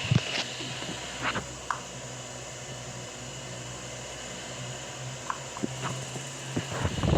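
Electric motor of a Delta Gold 50 cm four-blade wall fan humming steadily while running, with a few light clicks.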